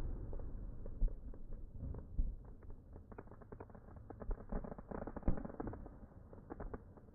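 Slowed-down, dull crackles and pops from an artillery shell firework bursting on the ground, scattered and irregular over a low rumble that fades away.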